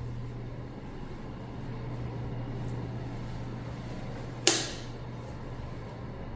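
A steady low hum with one sharp click or snap about four and a half seconds in.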